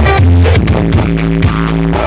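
Electronic dance music with a heavy bass and a steady beat, played loud through a big carnival sound-horeg system during a sound check.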